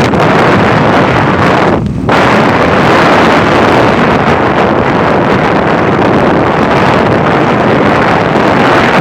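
Loud, steady wind rushing in through an open car window at road speed and buffeting the microphone, with a short dip about two seconds in.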